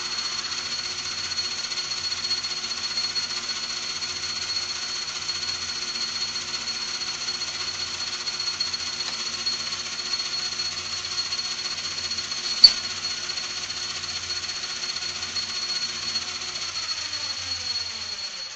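Metal lathe running steadily with a high whine while a light cut is taken at the edge of the part, with one sharp click about two-thirds of the way through. Near the end the lathe is switched off and winds down, its pitch falling as it slows.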